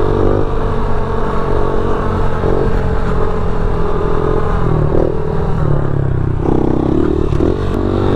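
Small single-cylinder pit bike engine running while being ridden, its pitch rising and falling with the throttle.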